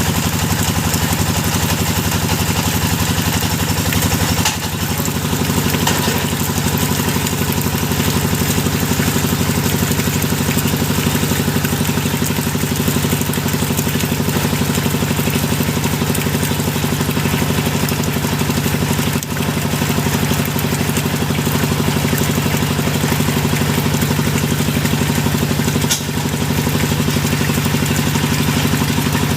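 Engine of a hydraulic deep-well drilling machine running steadily, its note shifting slightly about four and a half seconds in.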